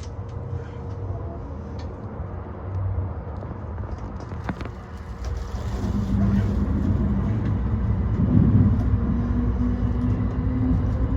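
E235 series electric train running, with a steady low rumble. About halfway through it grows louder and a motor whine slowly rises in pitch as the train picks up speed.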